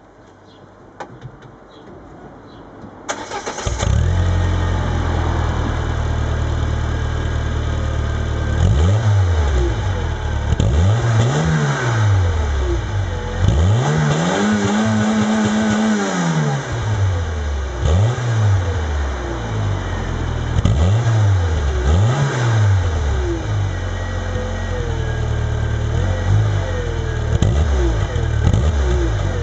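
Renault Clio II 1.4 (75 hp) petrol engine starting about three seconds in, after a few faint clicks, then idling and revved repeatedly through its stock exhaust. About half a dozen revs rise and fall, one held longer in the middle.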